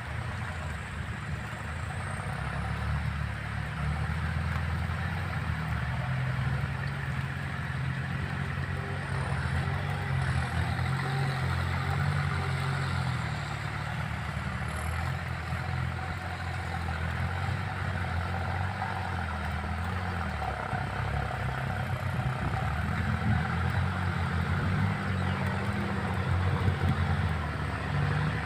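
Kubota tractor's diesel engine running steadily under load while rotary-tilling a muddy rice paddy, with the rattle and churn of the tiller in the mud underneath.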